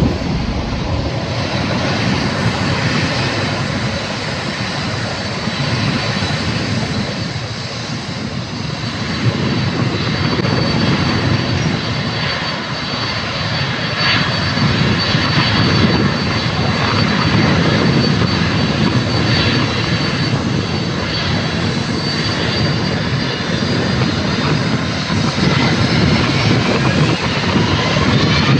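Boeing 767-300ER jet airliner's twin turbofan engines running at high thrust on the takeoff roll: a loud, steady rumble, with a high whine that rises in pitch near the end.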